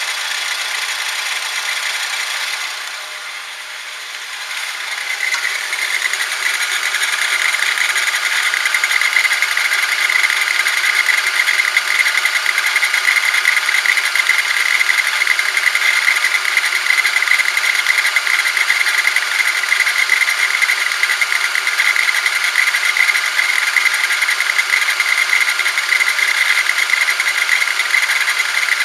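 The abnormal steering noise of a 2008 Honda Civic: a steady mechanical buzzing whine. It dips briefly about three seconds in, then comes back louder and stays steady from about five seconds on.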